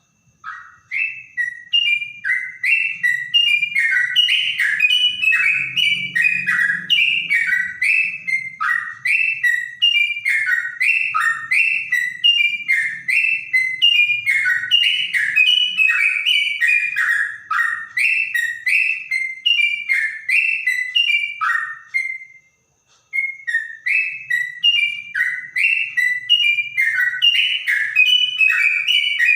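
Yellow-vented bulbul (trotok, trucukan) singing a long run of rapid, clear whistled notes, with one short break about three-quarters of the way through.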